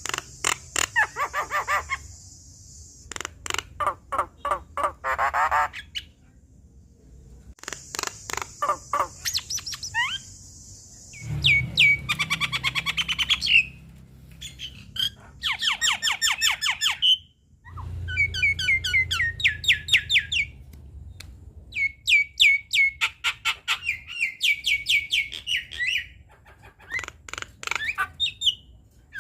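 Javan myna (jalak kebo) singing a lively, varied song. It is made of rapid chattering runs of notes, hissing squawks and short rising whistles, delivered in bursts with brief pauses between them.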